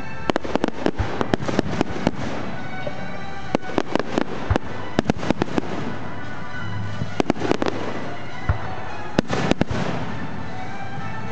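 Aerial fireworks going off: clusters of sharp bangs and crackles in quick succession, with short lulls between them. Music plays steadily underneath.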